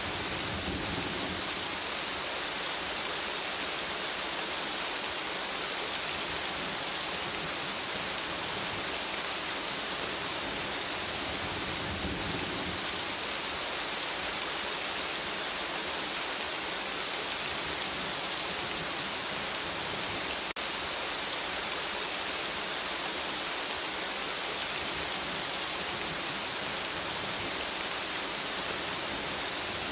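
Steady rain falling on forest foliage, an even hiss of many drops. A low rumble swells briefly about a second in and again around twelve seconds in.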